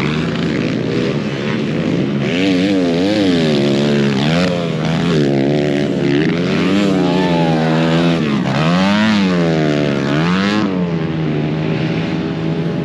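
Pit bikes racing: several small dirt bike engines revving up and dropping back again and again as the riders work the throttle and shift through the course, over a steadier engine drone.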